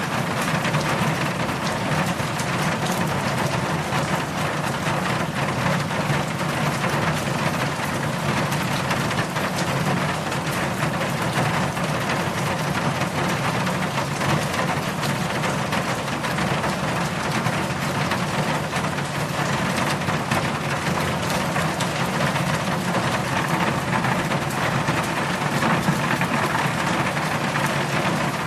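Steady heavy rainfall, a dense even hiss of rain pouring without a break.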